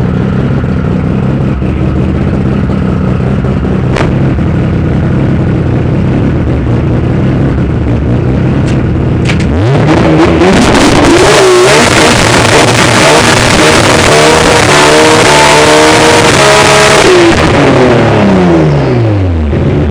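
Drag-racing car's engine idling at the start line, then launching about nine and a half seconds in: a full-throttle run rising in pitch through several gears, loudest in the middle, before the revs fall away near the end as the car lifts off and slows.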